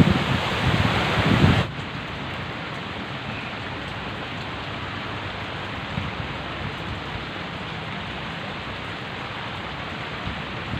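Heavy rain falling steadily in a storm, an even hiss. For the first second and a half strong wind also buffets the microphone, and this cuts off suddenly, leaving the rain alone.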